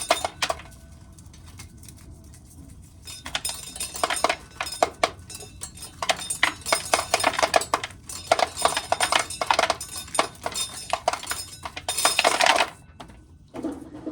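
Dry corn kernels being shelled off the cob, a dense rattle of clicks as the hard kernels break loose and fall, in two long runs with a pause early on.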